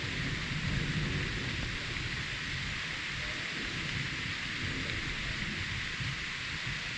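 Steady rain with a low rumble of thunder that swells about a second in and then fades back under the rain.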